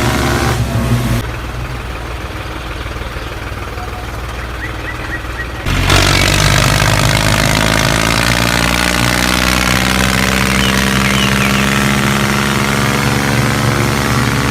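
Small motor-driven machinery running steadily with an even mechanical hum. The sound changes abruptly about a second in and again near six seconds, where it gets louder.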